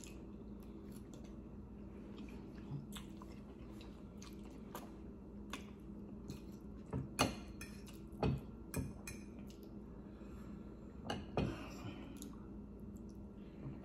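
Close-up eating sounds of a person chewing saucy spaghetti, with scattered short clicks and a few sharper taps of a metal fork on a ceramic plate, over a faint steady hum.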